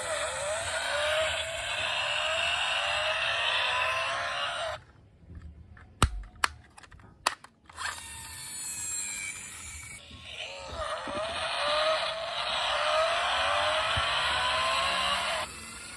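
Toy cars being pushed along, their plastic wheels rolling and scraping on a hard surface in two long spells. In the pause between them come a few sharp clicks.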